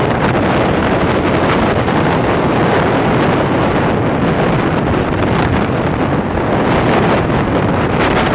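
Violent arctic windstorm wind buffeting the microphone: a loud, steady roar of gusting wind with no let-up.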